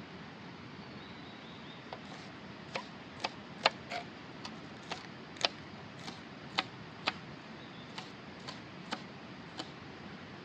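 Wood campfire crackling: irregular sharp pops and snaps, some much louder than others, over a steady hiss.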